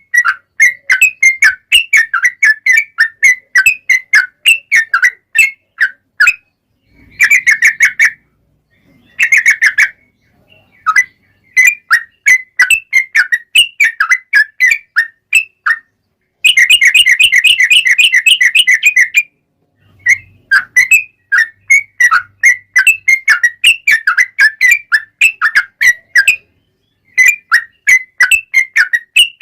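Yellow-vented bulbul (trucukan) singing long runs of rapid, chirpy whistled notes, several a second. The runs are broken by short pauses, and a faster, denser trill comes a little past halfway.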